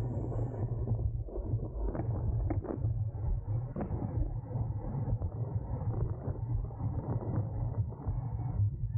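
Wind rumble on the camera microphone while riding a road bike in a race pack at speed, with road and tyre noise and a few sharp clicks about two to four seconds in.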